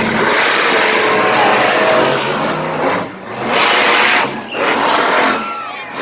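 Monster truck engines at full throttle in a drag race, a loud, dense roar that cuts back sharply twice, around three and four and a half seconds in, and eases off near the end.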